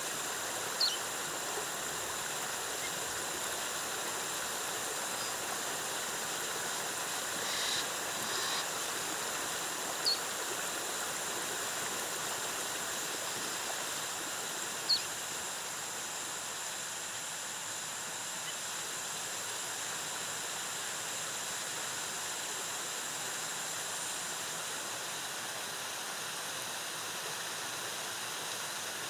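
Waterfall cascading steadily, a constant rush of falling water, with a few short high chirps over it, about a second in, near ten seconds and near fifteen seconds.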